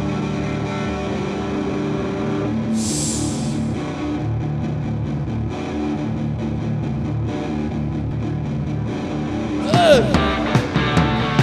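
Live rock band: an effect-laden electric guitar holds a steady, droning chord, with a short wash of hiss about three seconds in. Near the end a falling slide is heard and the drums come in with regular hits.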